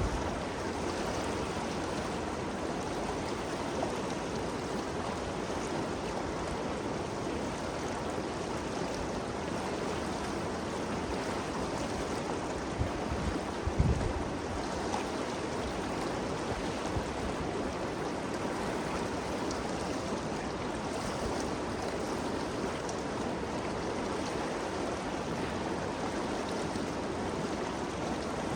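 The Ganges River flowing: a steady, even rush of water. There is one brief low thump a little before halfway through.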